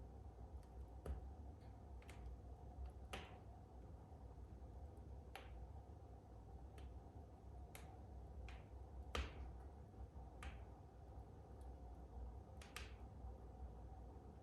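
Fire in a fireplace crackling faintly: about a dozen sharp, irregularly spaced pops and snaps over a steady low hum.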